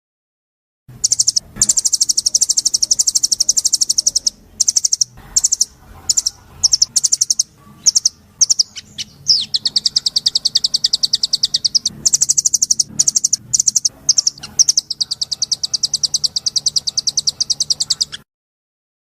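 A songbird singing long, very fast, high-pitched trills, broken by short pauses and a few shorter chirped phrases. The song starts about a second in and cuts off abruptly near the end.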